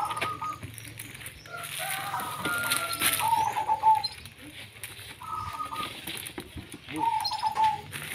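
Birds calling: short, clear calls at about the same pitch, repeated every second or two, over a low steady hum, with a few sharp knocks.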